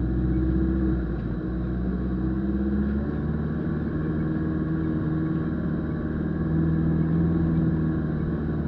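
A 4x4's engine running steadily at low speed off-road, heard from inside the cab, its note lifting a little about two-thirds of the way through.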